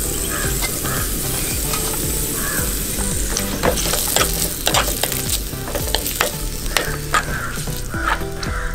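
Chopped garlic and ginger sizzling in hot coconut oil in an earthen clay pot, stirred with a wooden spatula that scrapes and clicks against the pot. The scraping clicks come thicker in the second half.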